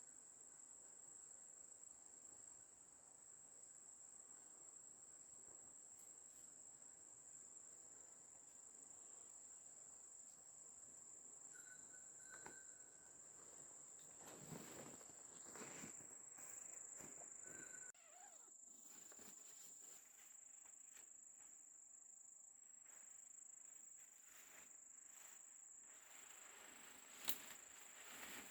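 Insects shrilling in a steady high-pitched drone. A few seconds of rustling come about halfway through, and a single sharp click comes near the end.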